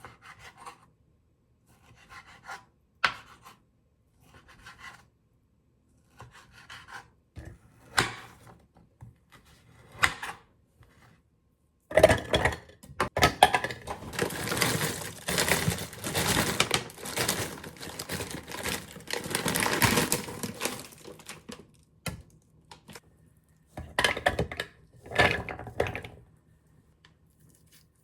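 Kitchen food-preparation handling sounds: scattered light knocks and rustles, then about ten seconds of continuous scraping and rubbing, then two short rustles near the end.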